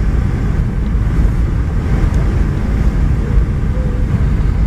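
Steady low rumble of a Boeing 717-200 airliner heard inside the passenger cabin: engine and airflow noise, unchanging in level.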